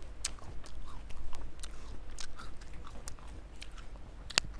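Close-up eating sounds: a person chewing crisp fruit with a steady run of small wet crackles, then one sharp crunch near the end as she bites into a slice of green apple.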